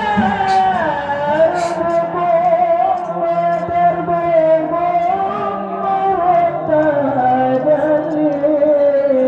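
A solo voice singing long held notes that glide slowly and turn in small ornamental runs, in a melismatic style.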